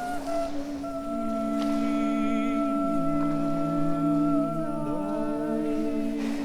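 Several voices humming long held notes together in a layered drone. A lower note joins about three seconds in and slides away shortly before the end.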